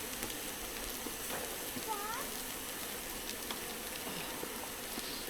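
Food sizzling steadily on a barbecue hotplate, a constant frying hiss.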